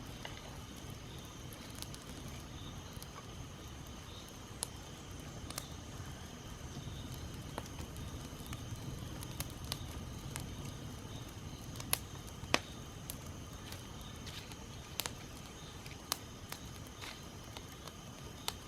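Small wood campfire of twigs and straw burning, crackling with irregular sharp pops scattered through the burning.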